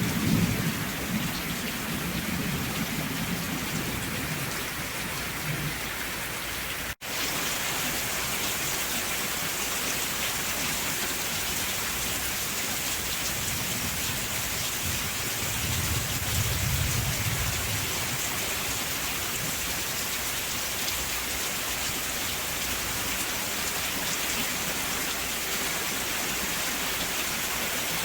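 Steady rain with low rolls of distant thunder at the start and again about halfway through. The sound cuts out for a split second at about seven seconds in, then the rain resumes with a brighter hiss.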